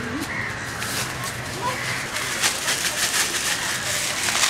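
Scattered short bird calls over a steady background noise.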